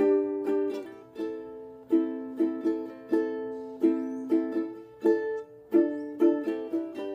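Instrumental music: a plucked string instrument picks chords, each stroke ringing and fading before the next, with no singing.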